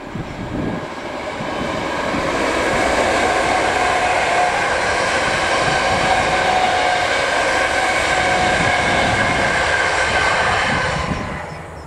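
A Class 321 electric multiple unit passing: the rush of its wheels on the rails swells over the first couple of seconds, with a steady whine running through it, then dies away near the end as the last car goes by.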